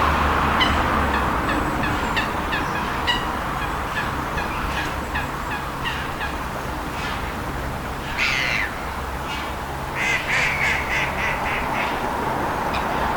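Gull calling: a string of short, repeated call notes, one longer call a little past eight seconds, then a quick run of notes, over a steady hum of distant traffic.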